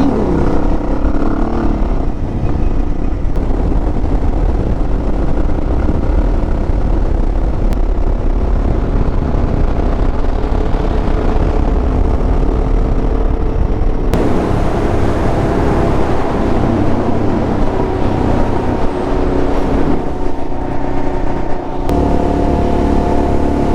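Suzuki DR650 single-cylinder engine running while the motorcycle is ridden, steady and loud. The sound changes abruptly about 14 seconds in and again about 22 seconds in.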